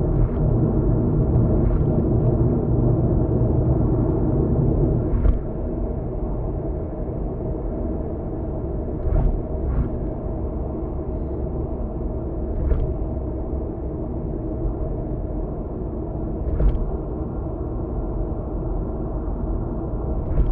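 Car interior road noise: a steady low rumble of tyres and engine while driving, dropping slightly about five seconds in, with a handful of short, sharp knocks spaced a few seconds apart.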